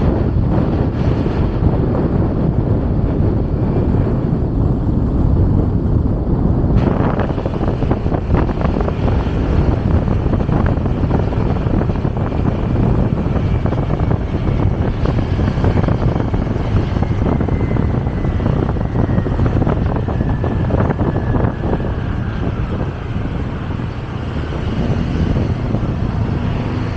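Riding a motorcycle: steady wind rush on the microphone over engine and road noise. In the second half a faint whine falls slowly in pitch.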